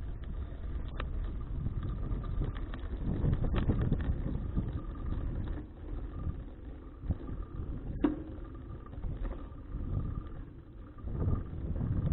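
Wind buffeting an action camera's microphone while cycling, a low uneven rumble that rises and falls, with a few sharp clicks from the moving bicycle, the sharpest about eight seconds in.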